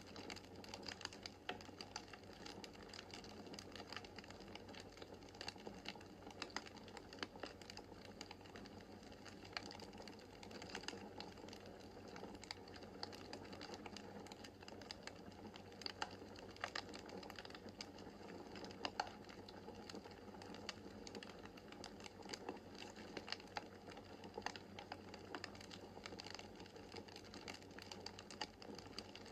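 Wood fire burning in a fireplace, crackling and popping with frequent irregular small snaps over a faint steady rush of flame.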